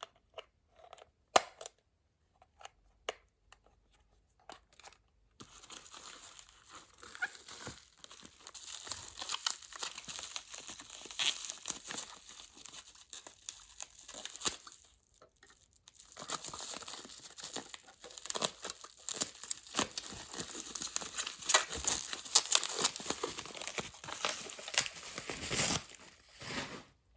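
Packaging wrap being crinkled and torn open by hand. A few scattered clicks and knocks of handling come first, then from about five seconds in a long stretch of crinkling and tearing with a short pause about halfway through.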